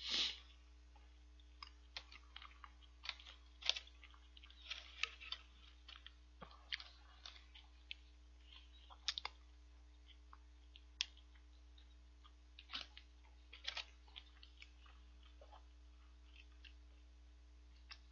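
Quiet chewing and mouth sounds of someone eating bone-in chicken feet, working the small bones around in the mouth, with scattered sharp little clicks at irregular intervals.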